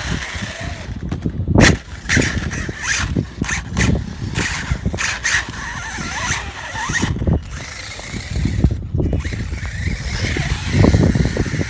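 Wind buffeting the microphone with a heavy, churning rumble, over the whine of brushless Traxxas T-Maxx RC truck motors speeding up and slowing down in short bursts.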